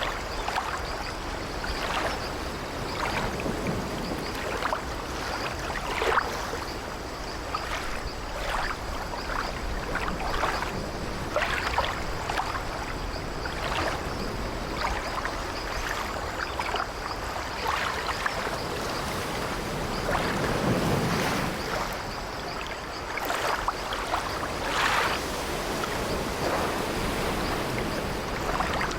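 Sea waves washing steadily against an old wooden sailing ship, with the ship's timbers creaking.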